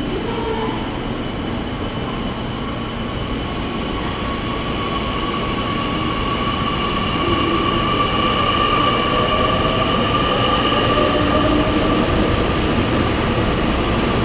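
A train moving through a station, with a steady high-pitched whine over a rumble and a lower tone rising in pitch near the end; the sound grows slowly louder as it comes nearer.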